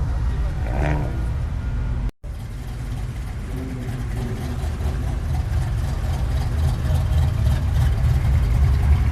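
Car engine running with a steady low rumble, cut off briefly by a sudden gap about two seconds in.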